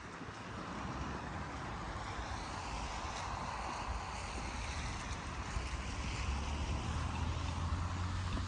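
Road vehicle passing on a wet street, tyres hissing on the wet road surface; the hiss swells in the middle and a low engine rumble builds near the end.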